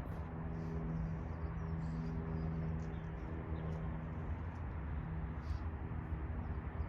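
Steady low engine hum holding one pitch with several level tones, easing off about five seconds in, with faint bird chirps above it.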